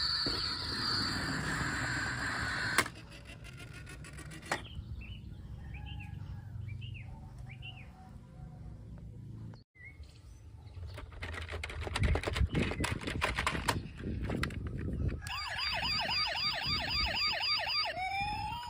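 A string of short sounds one after another: faint short chirps, then clattering, then an electronic police-style siren yelping in a fast warble that changes to a slower rising and falling wail near the end.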